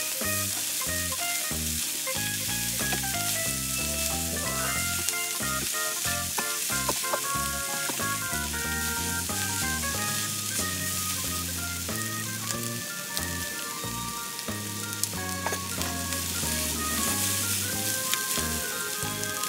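Stir-fried noodles with prawns and vegetables sizzling in a hot wok as they are tossed with tongs, with scattered light clicks of the utensils. Background music with a steady run of notes plays underneath.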